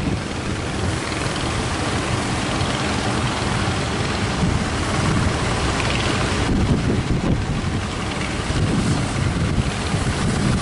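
Strong wind buffeting the microphone over the steady running of a fishing boat's engine.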